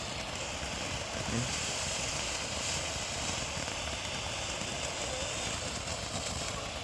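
Steady outdoor background noise: a low rumble under a constant high hiss, with no bangs or pops.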